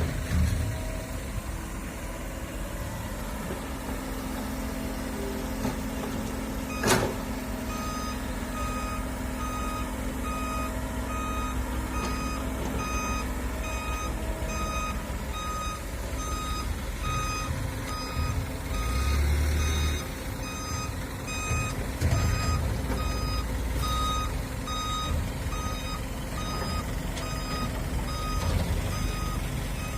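Heavy diesel machinery running with a steady low rumble. About eight seconds in there is a sharp click, then a back-up alarm starts beeping evenly, roughly one and a half beeps a second, and keeps going.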